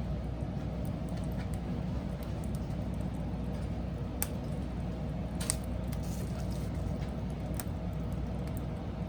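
Wood fire burning with a low, steady rumble and a few sharp crackles and pops in its second half.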